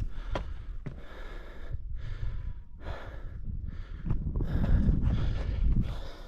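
A person breathing hard, several loud breaths in quick succession close to the microphone, with a low rumble underneath.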